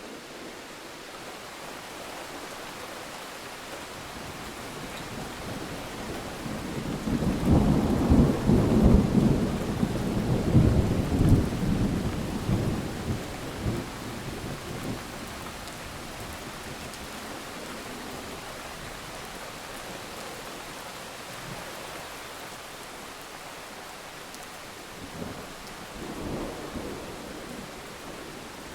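Steady rain with a rolling peal of thunder that builds about six seconds in, rumbles loudest for several seconds and fades away, followed near the end by a second, fainter rumble.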